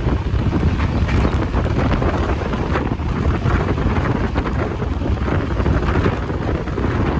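Wind rushing in at the open door of a moving passenger train and buffeting the microphone, over the train's steady low running rumble.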